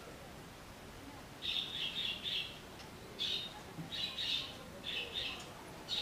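Small birds chirping in short clusters of quick high chirps, starting about a second and a half in and recurring about once a second.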